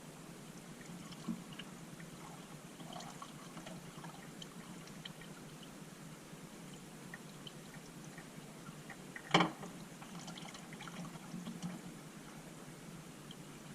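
Used engine oil trickling and dripping into a drain pan, faint, with scattered small drips and one sharp click about nine seconds in.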